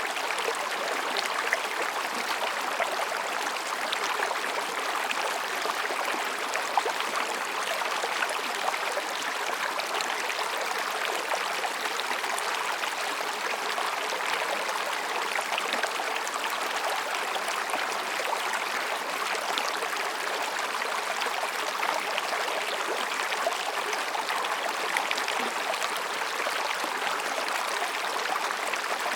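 Mountain stream babbling over and between rocks: a steady rush of water with fine splashing detail.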